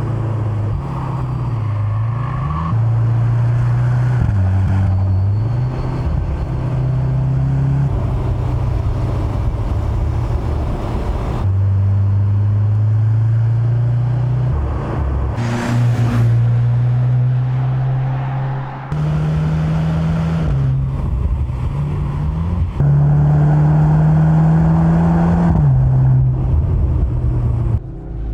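Mercedes-AMG C 63 S E Performance's turbocharged four-cylinder engine and exhaust running and revving, its pitch rising and falling, cut together from several takes with abrupt changes. About sixteen seconds in there is a brief rushing burst.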